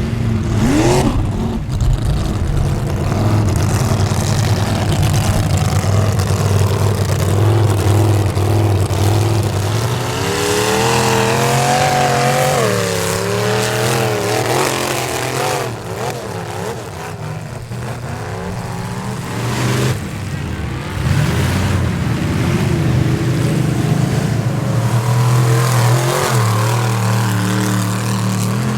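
Square-body Chevrolet pickup's engine running at high revs through a mud bog, its pitch wavering up and down about a third of the way in, easing off briefly about halfway, then back on steady high revs.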